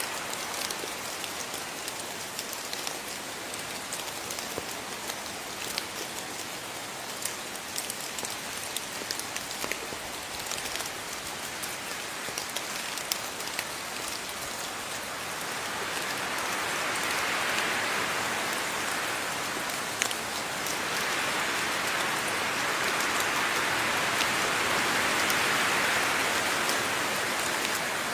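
Steady rain with many individual drops ticking, swelling louder twice in the second half.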